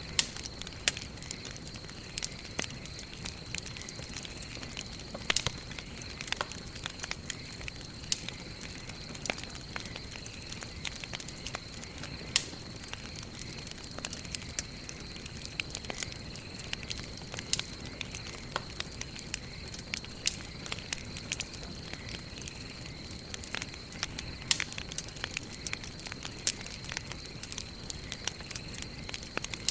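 Campfire of burning wood crackling, with frequent sharp, irregular pops over a steady hiss.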